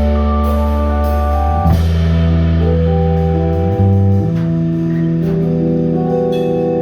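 Band playing an instrumental ending without vocals: long held chords over sustained bass notes, with guitar and drums.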